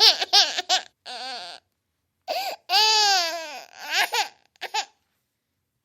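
A baby crying in short, high-pitched whimpering bursts, then one longer wavering wail about three seconds in, a few more short sobs, and it stops about five seconds in.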